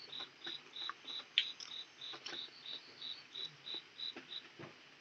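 An insect chirping steadily at a high pitch, about three chirps a second, breaking off near the end. Scattered small clicks and taps sound alongside it.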